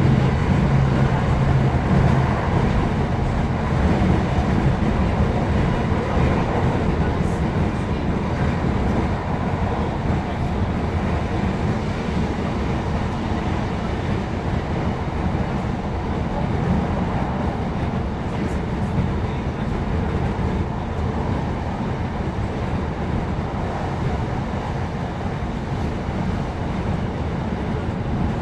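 Class 156 Super Sprinter diesel multiple unit running along the line: a steady rumble of wheels on rail and underfloor diesel engine. A steady engine note is strong only in the first second or so, after which the even running noise carries on.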